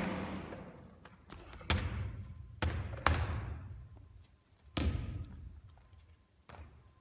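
A basketball bouncing on a hard court, about six separate thuds spaced irregularly over the seconds, each followed by a long echoing fade.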